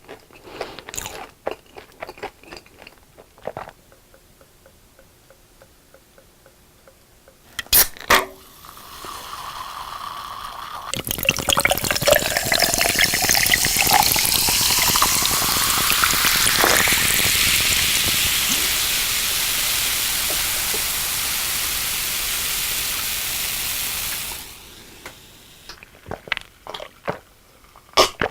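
Crunchy fried food bitten and chewed close to the microphone. A couple of sharp clicks follow, then a drink is poured into a glass for about thirteen seconds, its pitch rising as the glass fills. Crunching starts again near the end.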